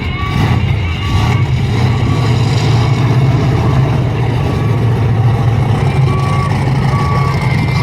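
Monster truck engine running steadily at a low, even pitch, with short high beeps coming and going every second or two.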